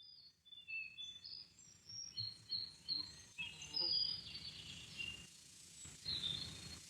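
Songbirds chirping: a string of short, high whistled calls over a faint steady background noise.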